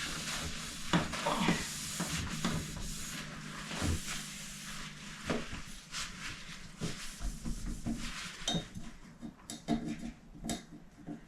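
Cloth rubbing and wiping across the outer front of a refrigerator, a scratchy hiss in repeated strokes, thinning out after about four seconds into scattered light clicks and knocks.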